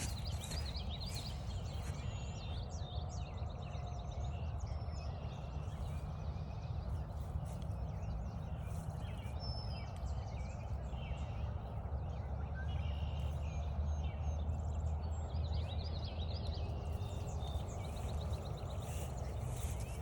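Several songbirds singing in chorus, with short chirps and repeated rapid trills, over a steady low rumble.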